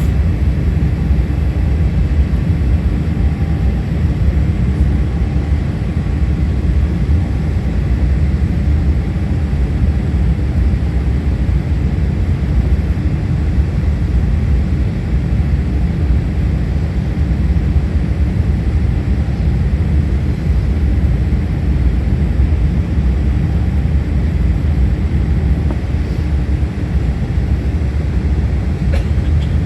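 Jet airliner's steady low rumble, an even drone that keeps the same level throughout.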